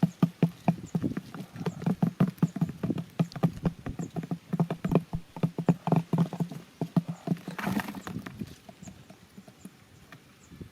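Rapid, uneven tapping and knocking, several hits a second, over a steady low hum, with a short rustling burst about eight seconds in; the knocks thin out and grow quieter near the end.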